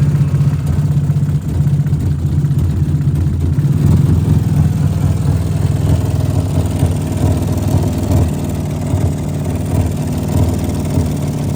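Nissan VQ-series V6 engine running at a mostly steady idle through its freshly repaired exhaust flex pipe; the engine is still logging a random-misfire code (P0300) and runs a little rough.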